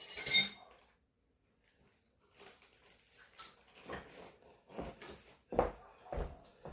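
Metal tools and parts being handled, clinking and clattering: a loud clatter at the start, then a run of lighter knocks and clinks, one with a brief metallic ring.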